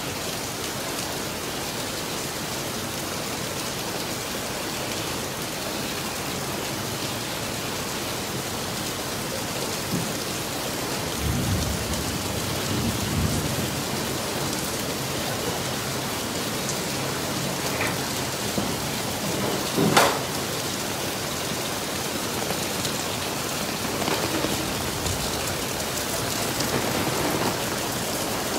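Heavy rain pouring steadily onto wet paving, with a low rumble of thunder about eleven seconds in and one sharp crack about twenty seconds in, the loudest moment.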